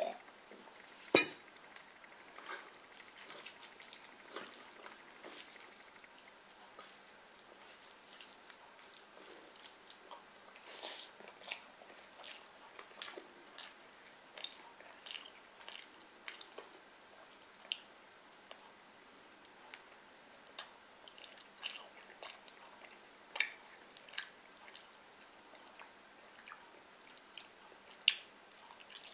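Close-up chewing and wet mouth sounds of a person eating fried fish and rice by hand, with scattered small clicks and smacks. One sharp knock about a second in.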